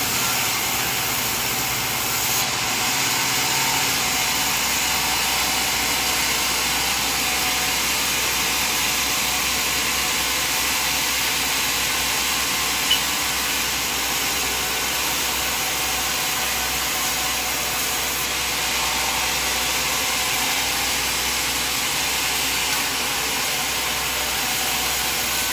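Sawmill machinery running with a steady mechanical noise and hum, with one sharp click about halfway through.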